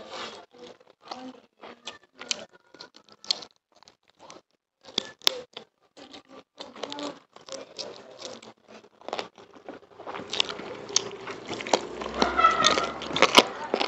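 Close-up eating sounds of chicken and rice eaten by hand: wet mouth smacks and chewing clicks in short irregular bursts, growing denser and louder near the end.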